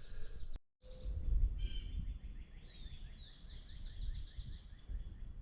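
A songbird singing a long run of quick, repeated chirping notes over a low background rumble. The sound starts just after a brief dropout in the audio.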